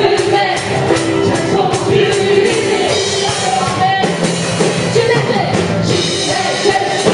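Live worship music: voices singing together over a full band with drums.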